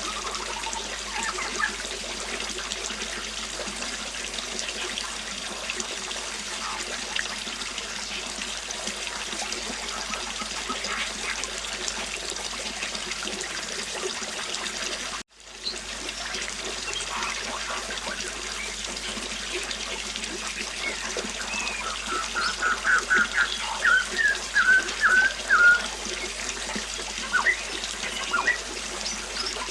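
River water flowing steadily, with scattered bird chirps. About halfway through the sound cuts out for a moment, and from about 22 to 26 seconds a bird sings a fast series of notes that stand out above the water.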